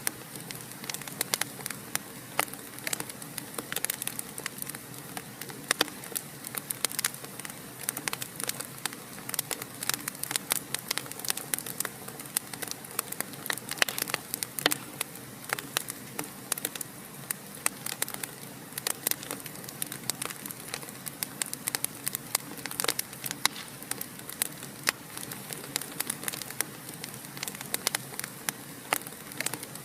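Wood fire burning in a fireplace, crackling and popping: many sharp irregular snaps, several a second, over a steady soft hiss.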